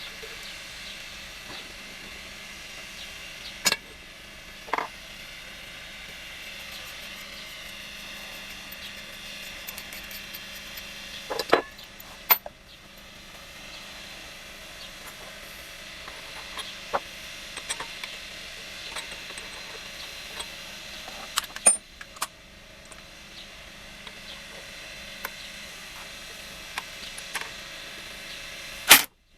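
Hand tools and metal engine parts of an NSU Maxi 175 clinking and knocking now and then while the engine is taken apart. There are a dozen or so sharp clicks over a steady background hiss, with the loudest knocks about 12 and 22 seconds in and one at the very end.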